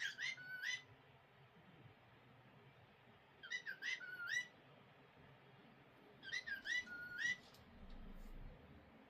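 Cockatiel talking, repeating the same short phrase learned from its owner three times, a few seconds apart. Each time it is a quick run of four or five rising notes.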